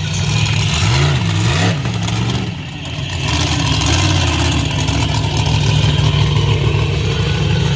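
Monster truck engine revving in two quick blips a second or two in, then running steadily.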